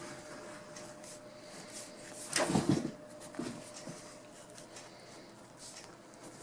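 Vinyl upholstery material being handled on a work surface: small clicks and rustles, with one louder rustling knock about two and a half seconds in.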